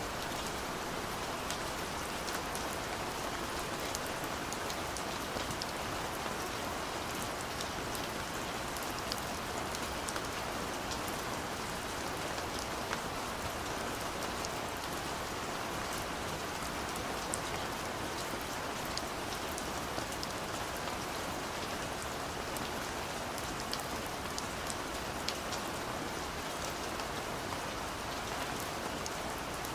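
Steady rainfall, a dense even hiss of rain with many small drop ticks spattering on surfaces.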